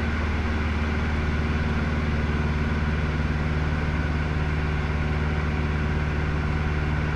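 Cessna 150L's four-cylinder Continental O-200 engine and propeller running at a steady drone, with an extra low tone coming in about a second in.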